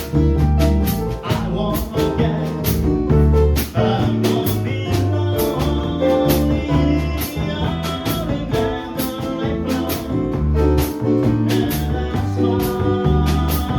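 Small jazz group playing a tune, with a moving bass line under the chords and evenly spaced drum and cymbal strokes keeping time.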